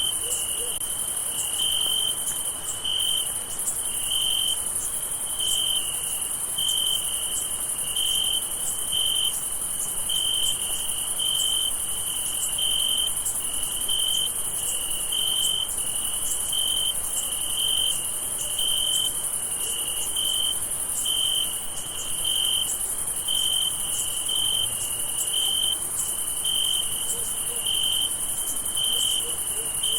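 Night crickets: one chirps in short pulses about once a second, over a steady high-pitched shrill of many more insects.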